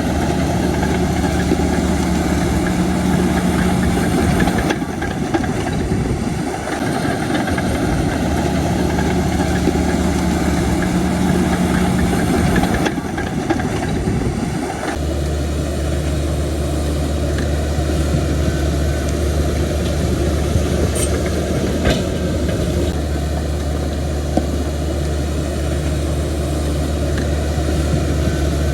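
Heavy diesel engines of a bulldozer and a dump truck running steadily, the engine note changing a few times as the machines work.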